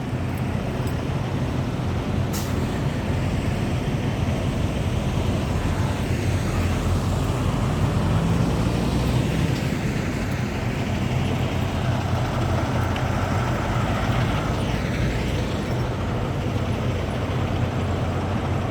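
Heavy diesel truck engines running steadily, with a brief sharp sound about two seconds in.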